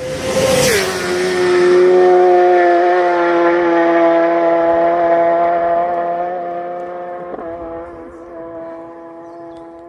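Motorcycle passing close at speed: its engine note drops sharply in pitch as it goes by, then holds a steady tone while it fades into the distance.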